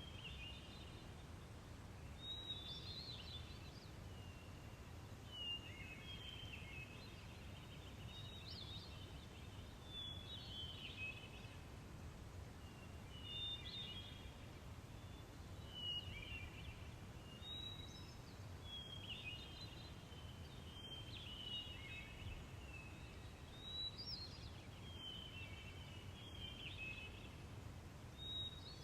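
Small birds chirping in short, falling clusters, one every second or two, over a steady low rumble.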